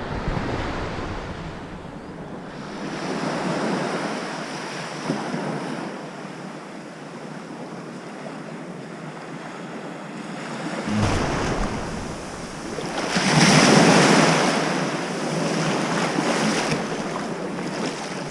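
Sea waves washing in and out, with wind on the microphone; the noise swells and fades, with the biggest surge about two-thirds of the way through.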